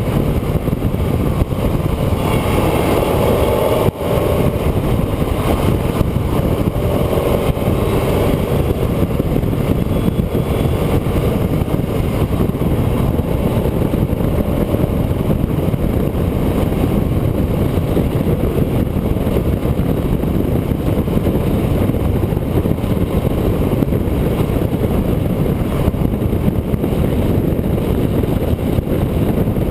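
A road vehicle driving along at speed: a steady mix of engine, tyre and wind noise, with a brief dip about four seconds in.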